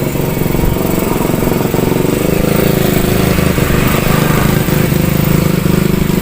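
Rebuilt Yamaha F1ZR single-cylinder two-stroke motorcycle engine running steadily at idle, sounding normal.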